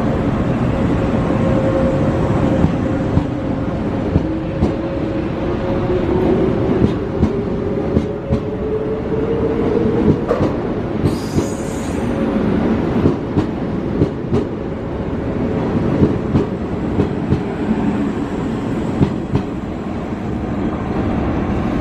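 JR West 381-series Super Yakumo electric express pulling out of the platform, its motor tone rising as it gathers speed. The wheels click over the rail joints in a regular beat, with a brief high wheel squeal about eleven seconds in.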